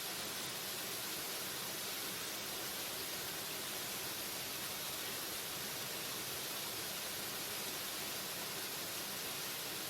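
Waterfall rushing steadily, an even hiss with no breaks or separate splashes.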